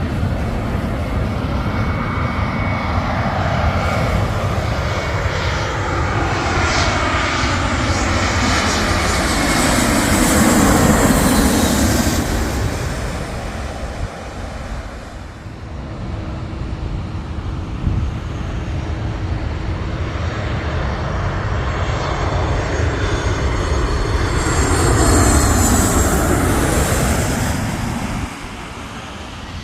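Jet airliner passing low overhead on its landing approach. Its engine noise swells and the pitch slides down as it passes, and a second swell of engine noise comes near the end.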